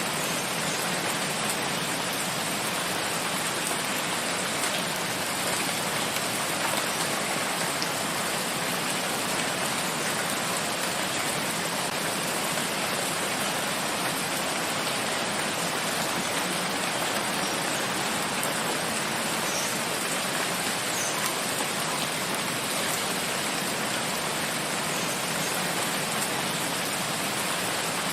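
Steady rain falling on a forest, an even hiss of rainfall with faint individual drops pattering on leaves and ground.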